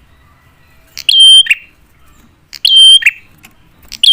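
Prenjak (prinia) calling loudly: a short, sharp call of about half a second with a piercing steady note, repeated evenly three times about every 1.6 seconds, as used for luring rival prenjak to answer.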